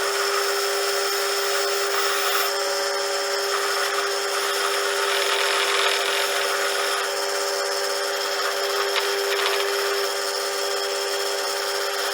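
Power tool spinning a wire brush against copper lamp parts to clean them. The motor gives a steady whine over the scratchy hiss of the bristles on the metal, and the sound starts and stops abruptly.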